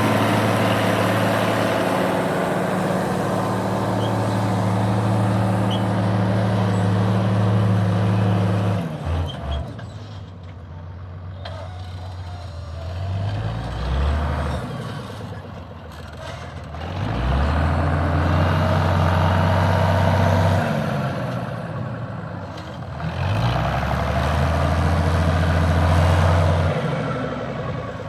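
Fiat 1300 DT Super tractor's six-cylinder diesel engine running under heavy load while pulling a ripper through the soil. It is loud and steady for the first eight seconds or so, then fades and swells back twice.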